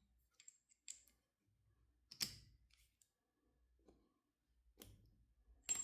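Near silence broken by sparse faint clicks and taps as a carburetor and hand tools are handled, with one louder knock about two seconds in.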